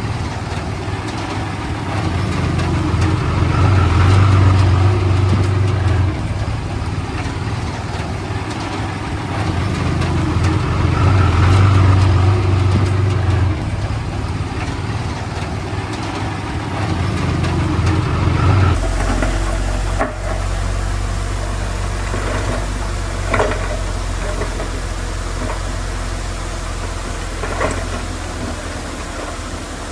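Heavy diesel engine of earthmoving machinery working, its note swelling under load three times. About two-thirds of the way in, the sound changes abruptly to a lower, steadier engine hum with a few sharp metallic knocks.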